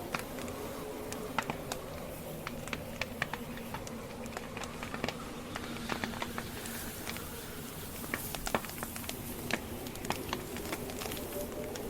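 Wood campfire burning, its logs crackling in many irregular sharp pops and snaps over a steady low hiss of the flames.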